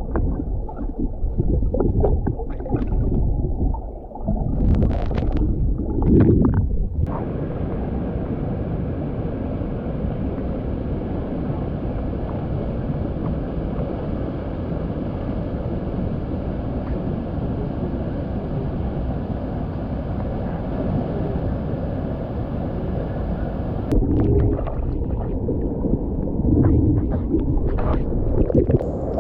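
Muffled, low rumble of water heard with the microphone under the surface of a river pool, with bubbling and knocks in the first seven seconds and again near the end, steadier in between.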